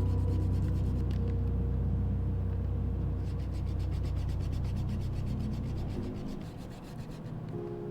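Dry rubbing of a drawing tool on paper, with a low steady hum that drops away about six seconds in.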